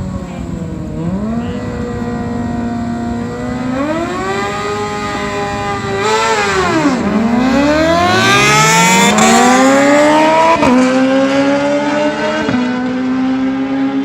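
Drag-racing motorcycle engines revving and accelerating hard down the strip. The pitch climbs repeatedly and jumps at the gear changes, and it is loudest a little past the middle as they pass.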